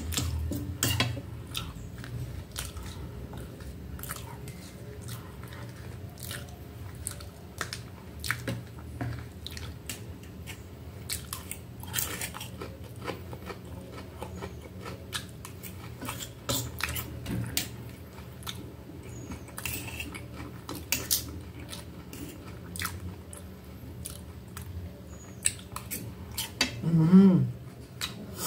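Close-miked chewing and biting of a meal of breaded chicken and rice, with many small mouth clicks and occasional light taps of cutlery on a metal plate. Near the end a short voiced sound from the eater is the loudest moment.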